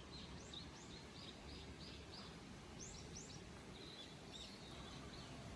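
A songbird singing faintly: a quick run of about half a dozen evenly spaced high notes, then further short phrases, over a low steady outdoor hiss.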